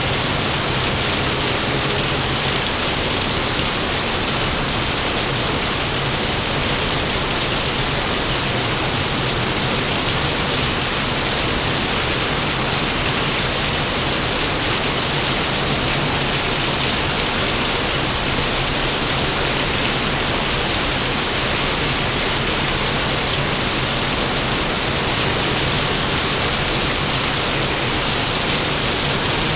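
Heavy rain falling steadily, an even unbroken hiss with no thunderclap, over a faint low steady hum.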